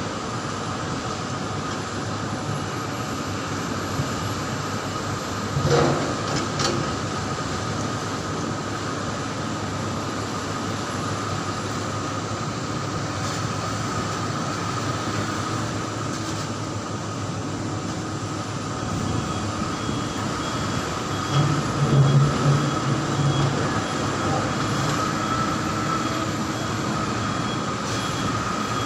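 Heavy mining dump truck running: a steady mechanical rumble with a constant high whine over it. Two short, louder low blasts come about six seconds in and again around twenty-two seconds in.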